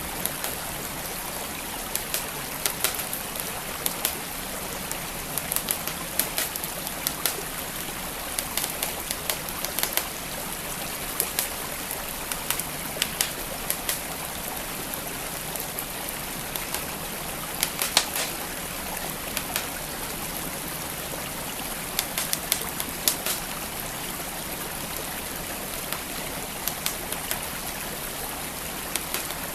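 Wood fire crackling with irregular sharp pops, several a second, over the steady rush of flowing creek water.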